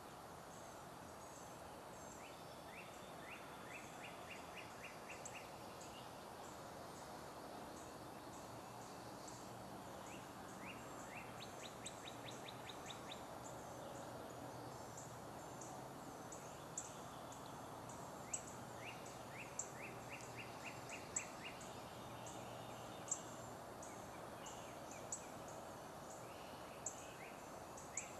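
Faint outdoor background with a songbird repeating a quick trilled phrase of rapid, evenly spaced notes every few seconds, and sharp high chips scattered among them.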